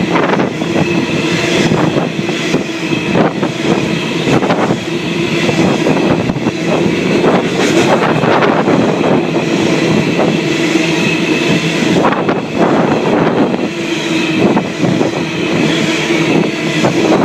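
Empty coal train rolling through a station, its wagons passing steadily with a continuous rumble and many irregular clicks and clunks from the wheels on the track.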